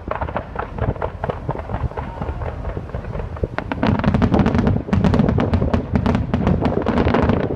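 Fireworks going off in a rapid run of bangs and crackles, growing denser and louder about four seconds in.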